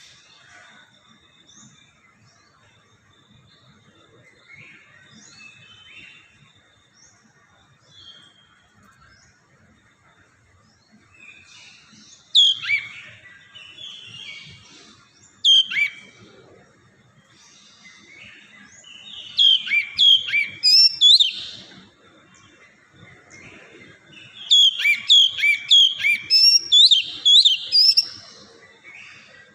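Oriental magpie-robin (kacer) singing: soft chirps at first, then loud spells of quick, sharp whistled notes that sweep downward, the longest runs in the second half.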